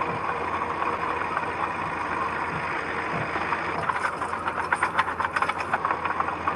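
Diesel engine of a construction machine running steadily, with a rapid rattling clatter for about two seconds, starting about four seconds in.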